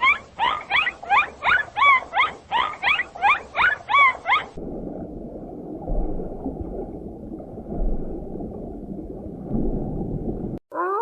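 Animal calls: a quick series of short rising calls, about three a second, stops abruptly about four and a half seconds in. Rough, low grunting noise with a few swells follows.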